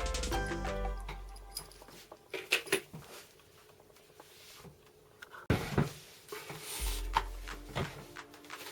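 Background music dies away, leaving a few seconds of sharp, scattered clicks and knocks. The music comes back in about seven seconds in, with more clicks over it.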